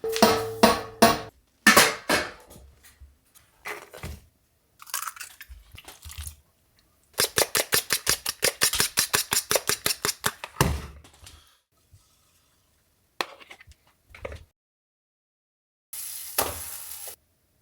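Kitchen clatter of dishes and utensils: scattered clinks and knocks, a fast run of clicks in the middle, and a short hiss near the end.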